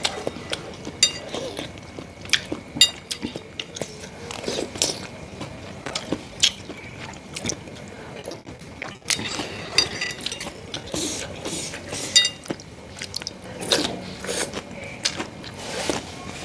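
Close-miked eating of bakso meatball soup: chewing with frequent sharp, irregular clicks, and a few brief ringing clinks like a spoon against the bowl.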